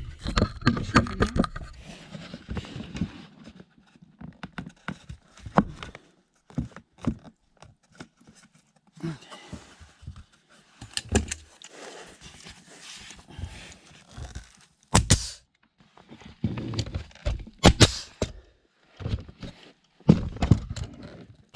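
Irregular knocks, taps and thumps of pine boards being handled and fitted into a wall, with a few sharper, louder strikes in the second half.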